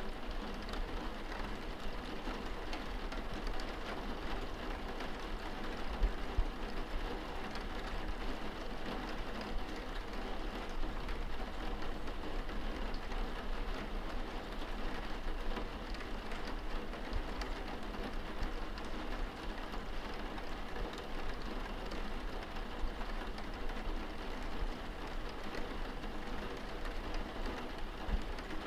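Steady rain on window glass heard from indoors: an even hiss with many small drop ticks and a few louder taps.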